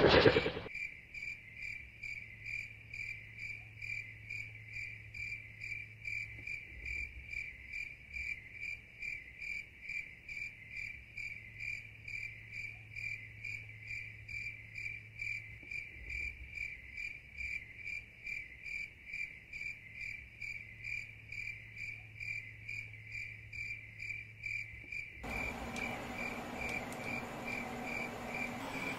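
A loud noisy burst cuts off just under a second in. It gives way to steady, even, cricket-like chirping at about three chirps a second, over a faint low hum. Near the end, a fuller background noise with a low hum comes in under the chirping.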